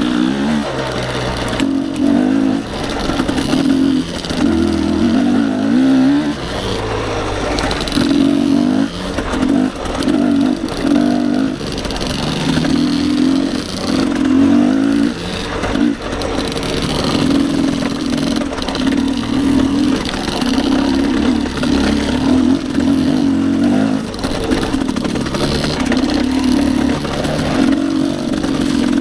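Dirt bike engine running under load on a climb, the throttle opened and eased off again and again so the note rises and falls every second or two.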